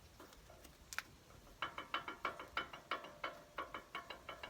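Worn stabilizer-bar end link (sway bar link) on a Toyota Hilux SW4 clicking and knocking in its joint as it is worked back and forth: a rapid run of short clicks, several a second, starting about a second and a half in. The knock is the sign of a worn link.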